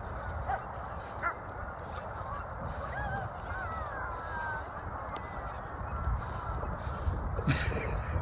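Birds calling in the distance: a few short calls that glide downward in pitch, over a steady low wind rumble, with a single knock near the end.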